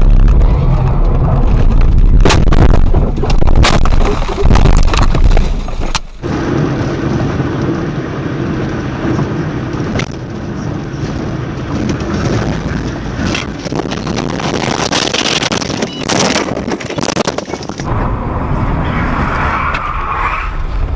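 Car dashcam audio: road and engine rumble broken by several sharp bangs of collision impacts. The sound cuts abruptly to a different recording about six seconds in and again near the end.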